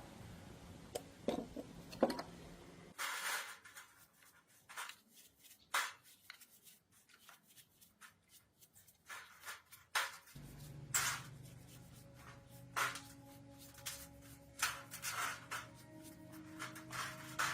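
Irregular scrapes, rubs and light knocks of hand work on parts, with faint background music.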